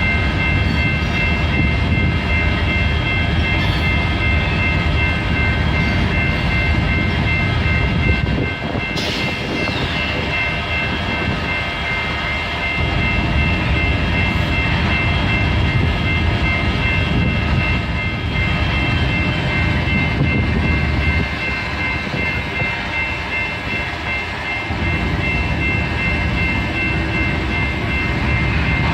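Freight train rolling past: a low, uneven rumble of railcars that swells and eases, with several steady high-pitched tones ringing above it.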